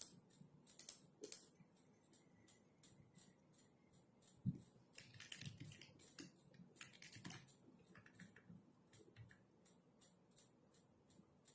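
Soft typing on a computer keyboard: uneven key clicks, several a second, quickening into a busier run in the middle. A single low thump about four and a half seconds in.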